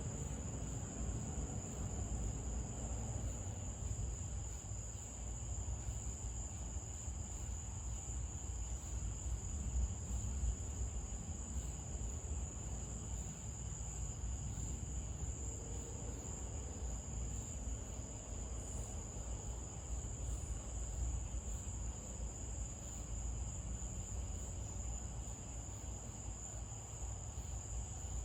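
Crickets trilling in one steady, unbroken high-pitched chorus, over a constant low rumble.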